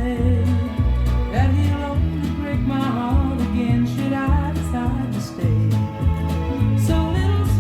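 A recorded song with singing and guitar over a steady, pulsing bass line, played back through a Yamaha B-50 hi-fi amplifier and speakers.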